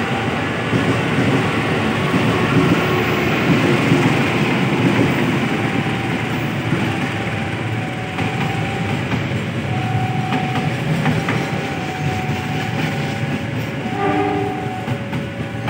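Diesel locomotive-hauled passenger train passing close by: a steady, loud rumble of the train rolling over the rails, with scattered clicks of wheels on the track.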